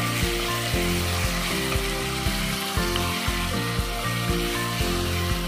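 Chopped onions and tomatoes sizzling as they fry in oil in a kadai, under background music with a steady beat.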